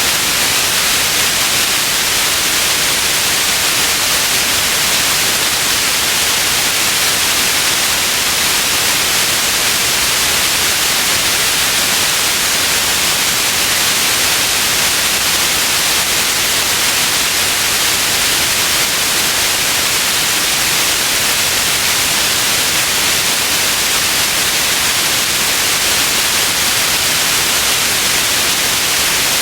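Steady synthetic white noise: an even, unchanging hiss, brightest in the upper frequencies.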